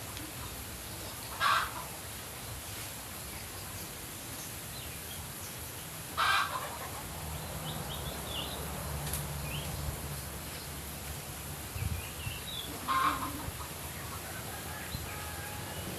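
Bird calls: three short, loud, harsh calls spaced several seconds apart, with faint high chirps from small birds in between.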